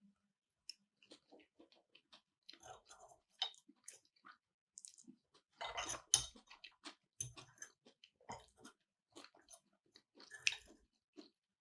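Person chewing food close to the microphone: soft, irregular mouth clicks and chewing noises, a little louder about six seconds in and again near the end.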